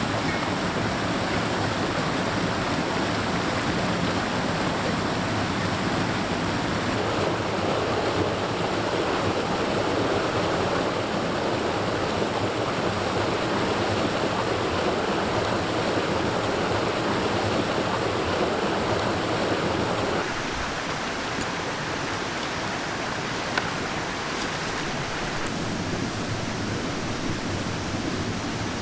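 Mountain stream rushing steadily. About twenty seconds in the water sound drops a little and changes, and a single sharp click comes a few seconds later.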